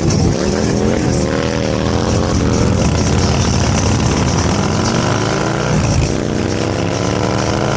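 Motorcycle engine accelerating, its pitch climbing briefly about a second in, then again in a longer steady rise from about halfway through, over a steady low rumble.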